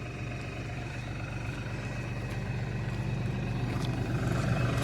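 LS compact tractor's diesel engine running steadily as it pulls a land leveler, growing gradually louder.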